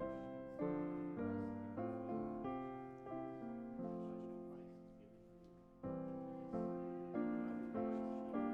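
Piano playing slow chords, each struck and left to fade; about halfway through one long chord dies away before the playing picks up again.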